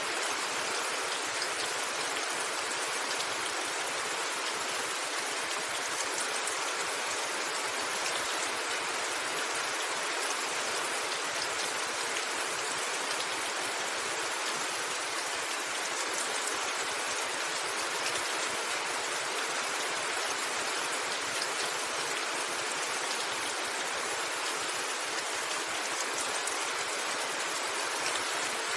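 Steady rain falling: a constant even hiss with faint scattered ticks of individual drops.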